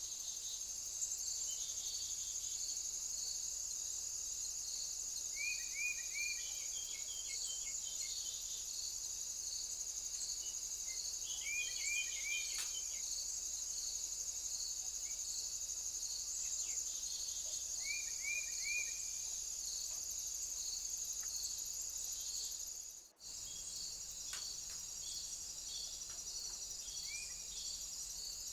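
Insects trilling: a steady high-pitched buzz with a regular pulsing chirp under it. A bird gives short runs of three or four quick falling notes, about four times. The sound drops out for a moment a little past the two-thirds mark.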